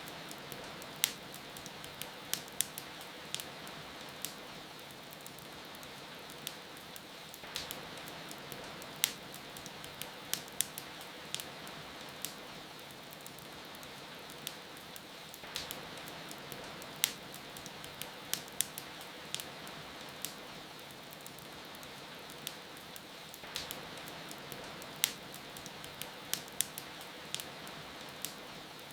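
Wood fire crackling with sharp pops over a steady hiss of falling rain. The same pattern of pops comes round about every eight seconds, as a short repeating loop.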